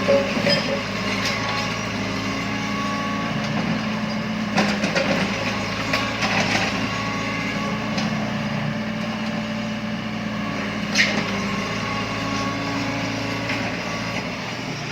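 Excavator engine running steadily, with a few sharp clanks and knocks, the sharpest about eleven seconds in.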